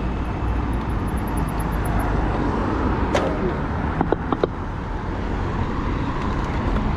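Steady wind and road noise on an action camera riding along on a bicycle in traffic, a low rumble with hiss. A few sharp clicks come about three seconds in and again just after four seconds.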